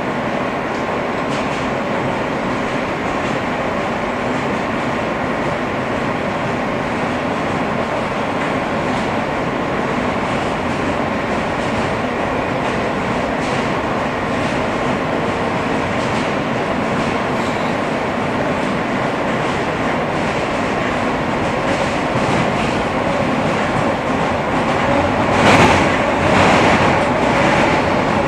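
R160 subway car running between stations: a steady rumble of wheels on rail under a steady propulsion-motor hum, with light rail-joint clicks. About 25 seconds in there is a short, louder clatter.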